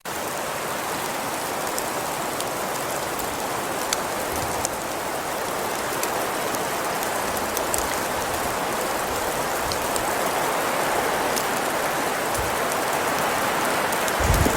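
Steady hiss of rain falling, with scattered light ticks of drops. A low rumble comes in near the end.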